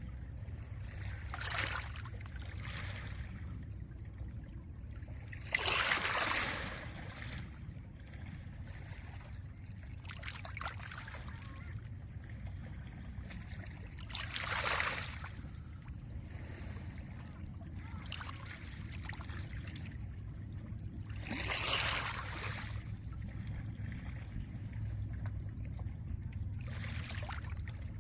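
Small lake waves washing up on a pebble beach: hissing washes that swell and fade, the largest about every eight seconds with smaller ones between, over a steady low rumble.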